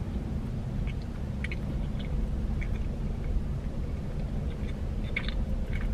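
A person chewing a mouthful of chicken pizza with the mouth closed: faint, scattered wet mouth clicks over a steady low rumble in a car's cabin.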